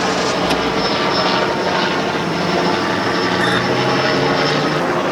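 Steady, loud engine noise with several held low hums that shift slightly in pitch.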